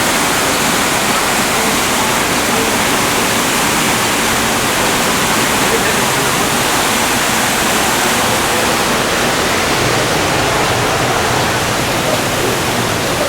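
Loud, steady rush of water falling from a waterfall.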